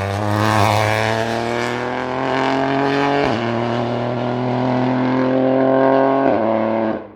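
Hill-climb race car engine accelerating hard, its pitch rising steadily, dropping at two upshifts about three seconds apart, then climbing again; the sound cuts off abruptly near the end.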